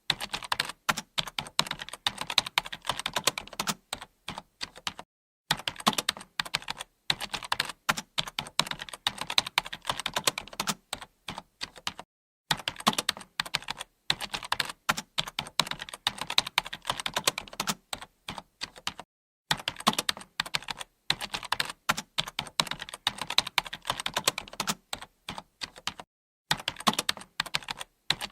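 Fast, continuous typing on a computer keyboard: a dense patter of key clicks in runs of about seven seconds, each broken by a brief silent gap.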